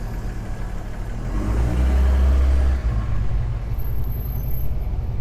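A motor vehicle passing on the street, a low engine rumble that swells to its loudest about two seconds in and then eases.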